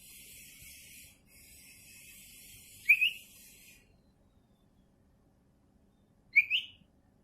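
Cucak ijo (green leafbird) giving two short, loud, rising whistled calls, about three seconds apart. A steady high hiss of ambient noise stops about four seconds in.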